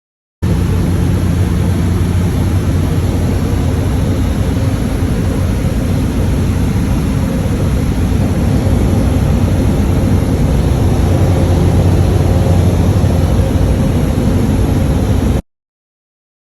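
Cessna 208 Caravan's Pratt & Whitney PT6A turboprop engine and propeller running steadily with a loud, deep drone. It cuts in suddenly and cuts off just as suddenly.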